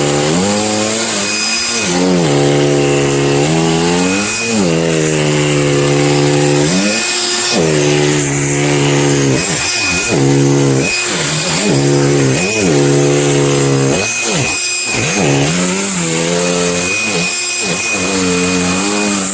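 Cordless handheld vacuum running on a high setting, its motor pitch sagging and recovering over and over as the suction is loaded and freed. It starts abruptly just before and runs without a break.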